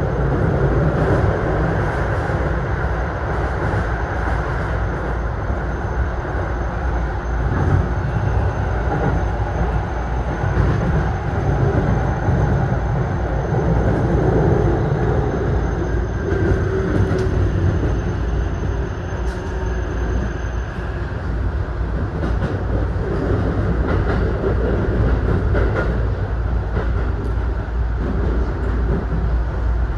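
Keisei electric commuter train running, heard from inside the driver's cab: a steady rumble of wheels on rail with a few scattered clicks. A thin high whine stops about two-thirds of the way through, and a fainter tone falls slowly in the middle.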